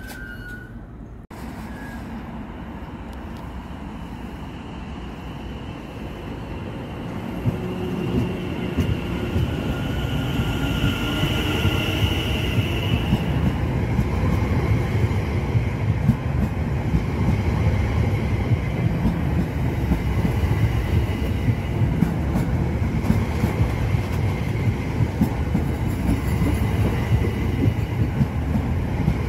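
Electric multiple unit pulling out of the platform: a rising motor whine as it accelerates, with the rumble of wheels and clicks over the rail joints growing steadily louder.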